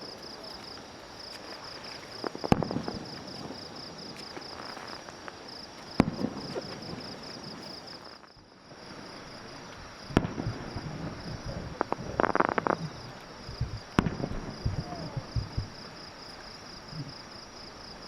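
Fireworks bursting in the air: four sharp bangs about four seconds apart, the later ones followed by crackling. Insects chirp steadily underneath in a fast, high pulsing trill.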